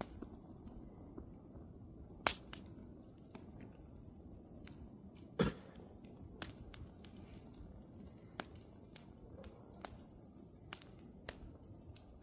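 Wood campfire crackling: a low steady rustle of burning with scattered sharp pops and snaps, the two loudest about two seconds and five and a half seconds in.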